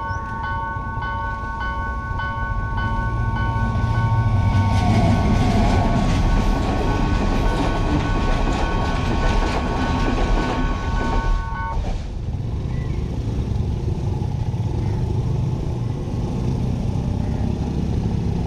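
Level-crossing warning bell ringing in a steady repeating pattern while a train passes over the crossing, its wheels clacking over the rail joints from about four seconds in. The bell cuts off suddenly about two-thirds of the way through, leaving a lower steady rumble of traffic.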